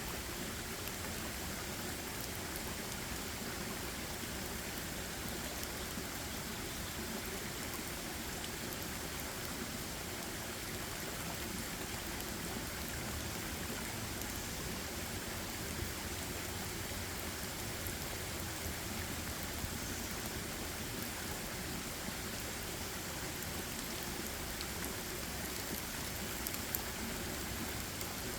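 Steady, even hiss of water, with a few faint ticks in the second half.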